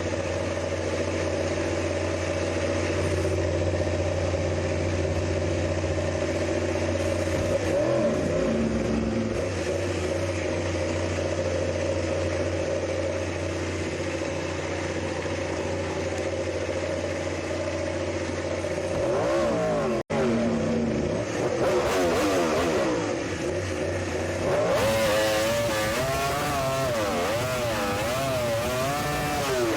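Racing motorcycle engines running, a steady drone for most of the time, then wavering up and down in pitch with a louder, noisier rush over the last few seconds.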